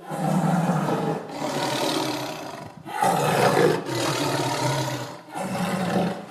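Leopard roaring in several long calls that start abruptly, with short breaks a little over one, about three and about five seconds in.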